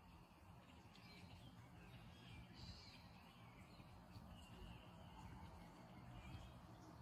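Near silence outdoors: faint, brief bird calls now and then over a low steady background hum.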